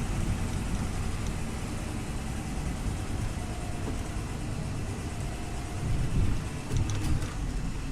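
Scania OmniLink city bus running: a steady low engine rumble with road noise, and a few louder knocks and rattles about six to seven seconds in.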